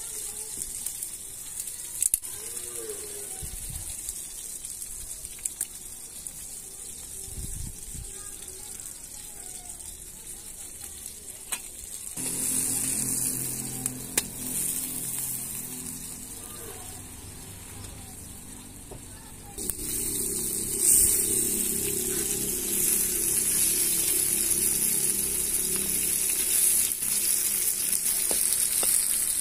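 Chopped tomatoes, onion and green chillies sizzling as they fry in a black iron karahi over a wood fire, stirred with a metal spatula. The sizzle starts abruptly about twelve seconds in, eases off, then comes back louder about twenty seconds in and holds.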